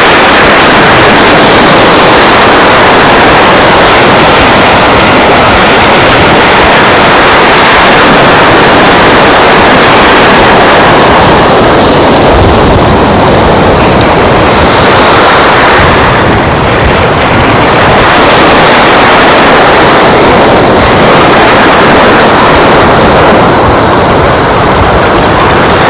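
Loud, steady rush of wind and surf on a beach, with the wind buffeting the microphone.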